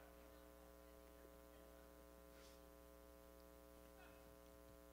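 Near silence: only a faint, steady electrical hum in the recording.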